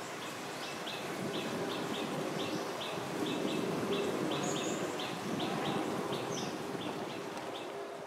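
A bird calling a short chirp over and over, about three times a second, with a second, higher call twice, over a steady low rush of outdoor ambience.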